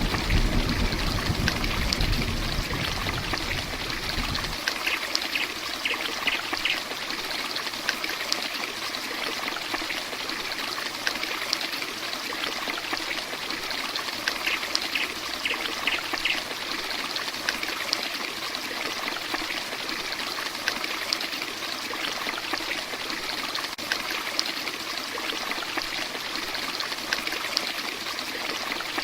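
Heavy rain pouring steadily, with water running and trickling. A low rumble underneath stops suddenly about four seconds in.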